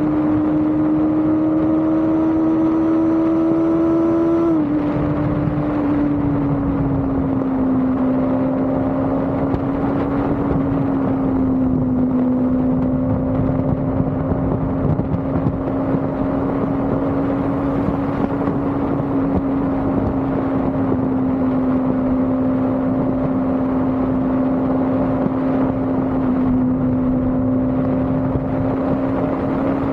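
Motorcycle engine running at a steady cruising speed, its note dropping a little about four and a half seconds in and then holding nearly level, over steady wind and road rush.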